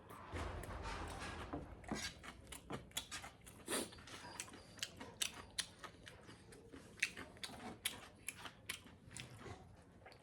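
A person eating pork close to the microphone: chewing with many short, irregular wet clicks and smacks.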